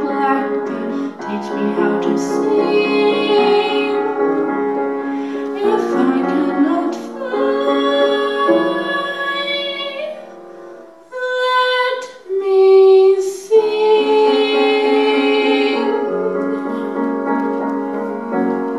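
A female singer singing a slow ballad with piano accompaniment, holding one loud high note about twelve seconds in.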